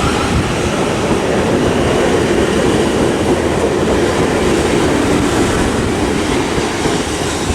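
Class 450 Desiro electric multiple unit pulling out of the platform: a steady, loud rumble of wheels on the rails with a faint hum from the train running underneath.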